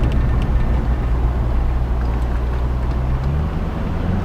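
C5 Corvette's 5.7-litre V8 running steadily while the car is driven, its engine note dropping in pitch about three seconds in.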